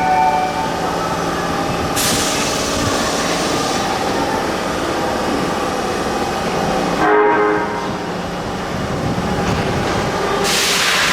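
Osaka Metro Sakaisuji Line subway train running through the underground station, its wheels and motors rumbling, with a short horn sounding about seven seconds in. Near the end the rushing gets louder.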